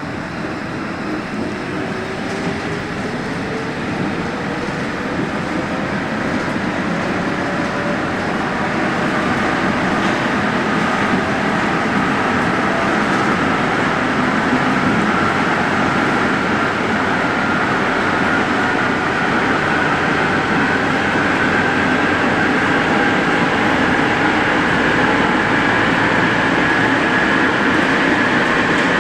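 Santiago Metro NS-74 rubber-tyred metro train running and gathering speed, its motor whine rising slowly in pitch as the running noise grows louder.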